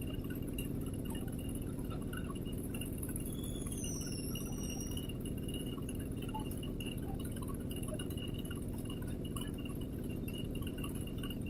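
Steady low background rumble with a faint steady high whine, and a brief gliding chirp about four seconds in.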